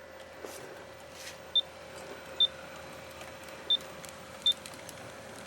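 Four short high-pitched electronic beeps, all at the same pitch and irregularly spaced, over a faint steady hum.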